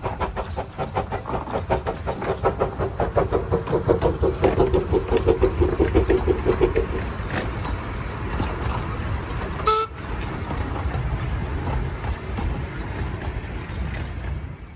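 Narrow-gauge Andrew Barclay steam locomotive running with a quick, regular exhaust beat. It blows one long whistle from about a second in to about seven seconds. A brief sharp sound comes near ten seconds, and the rumble of the train runs on until it cuts off suddenly.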